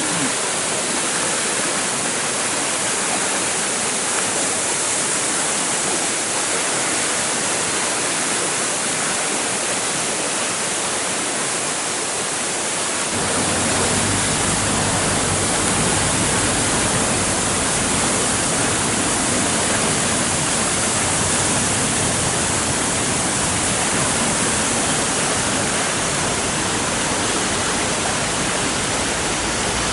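Rushing water of a mountain stream and its falls, a steady loud hiss. About thirteen seconds in, a deeper rumble joins and it gets a little louder.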